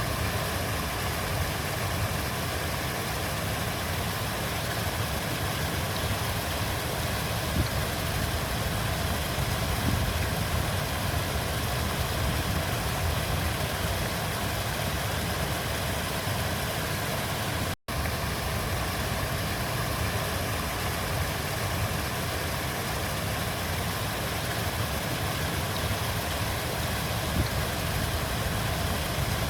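River water flowing, a steady rushing that is heaviest in the low end. It drops out completely for an instant a little past halfway, then carries on unchanged.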